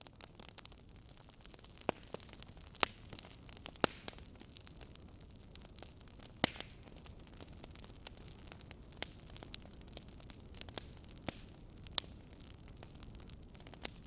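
Wood fire crackling in a fireplace: sharp pops at irregular intervals over a steady soft hiss.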